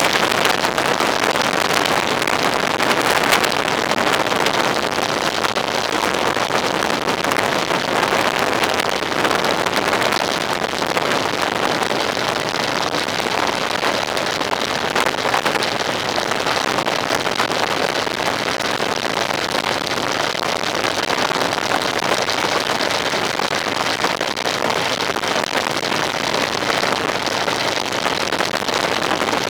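Steady rushing noise from a vehicle on the move, wind and road noise without a clear engine note.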